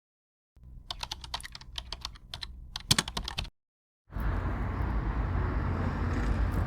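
A run of quick, irregular clicks like keystrokes for about three seconds, stopping suddenly; after a short silence a steady, noisy rumble starts about four seconds in.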